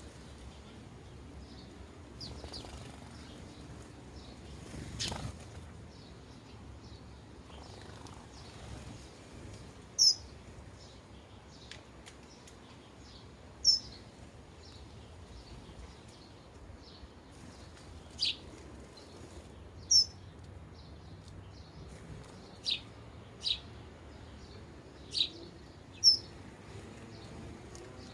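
Sparrows at a feeder giving single short, high chirps every few seconds, mostly in the second half, over a faint low background hum.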